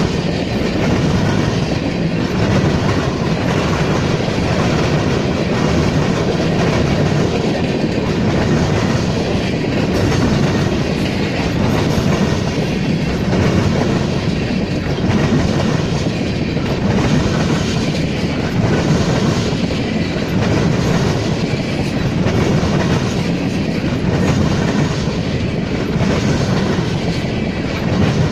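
Freight cars of a passing Norfolk Southern freight train rolling by, wheels clacking over the rail joints in a regular rhythm with a continuous rumble.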